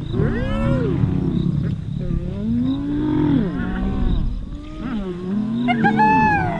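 Several animals calling over one another: overlapping moaning calls that rise and fall in pitch, one after another without a break.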